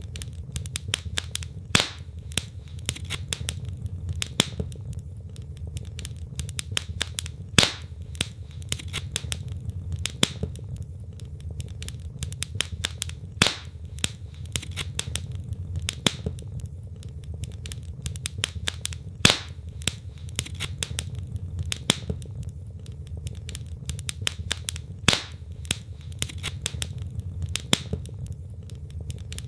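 Wood fire crackling steadily, with dense small snaps and a sharper, louder pop every few seconds over a low, steady rumble.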